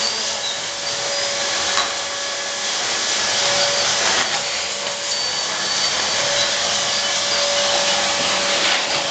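Vacuum cleaner running steadily, a constant whooshing hum with a steady whine, with a couple of brief knocks.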